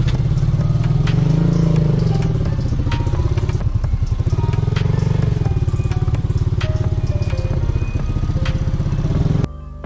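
Motorcycle engine running under throttle, its pitch rising and falling with the revs, until the sound drops away suddenly near the end.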